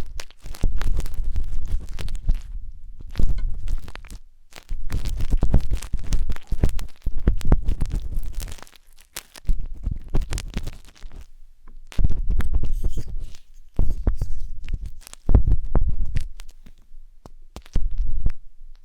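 Wooden skewer scraping and rubbing inside the silicone ear of a 3Dio binaural microphone. It comes in strokes of a second or two with short pauses, crackly scratching over a deep rumble.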